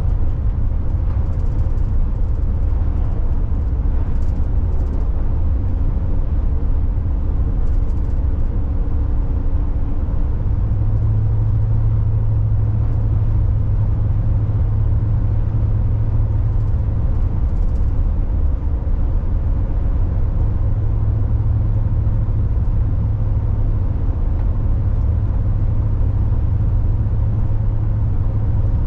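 Steady drone of a car driving along a road, heard from inside the cabin: a constant low engine and tyre rumble with road noise above it.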